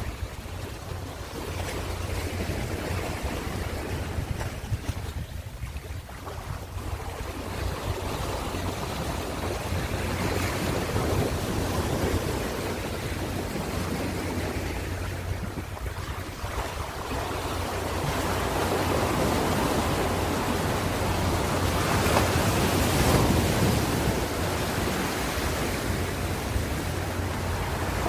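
Ocean surf: waves breaking and washing in as a continuous rushing noise that swells and falls back, loudest a little past the middle, over a steady low rumble.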